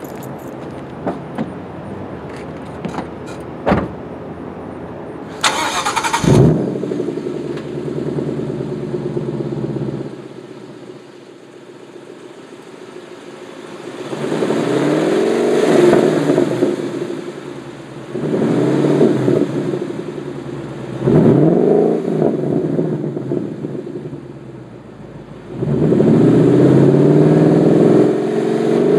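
2014 Mustang GT's 5.0-litre V8, warm, idling through Shelby GT500 axle-back mufflers and revved lightly at low RPM: a quick blip early on, a slower rise and fall about halfway, two short revs soon after, and a rev held for about three seconds near the end.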